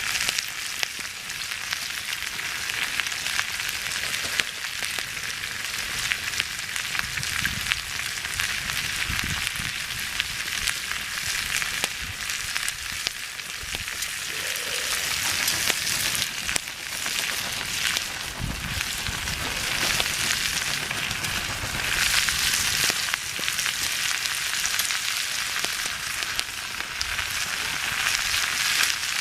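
Stir fry sizzling in a pan over a campfire: a steady sizzle dotted with many tiny pops.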